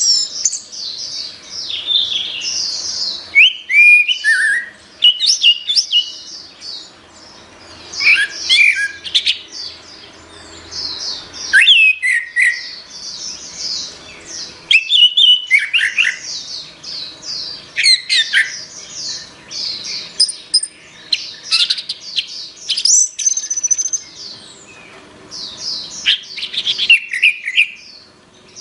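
Orange-headed thrush singing a loud, varied song of rapid whistled and chattering phrases, with short pauses between the bursts.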